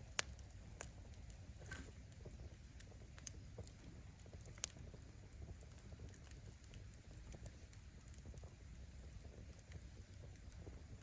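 Wood fire burning with a low steady rumble, and firewood crackling with scattered sharp pops. The loudest pops come in the first five seconds.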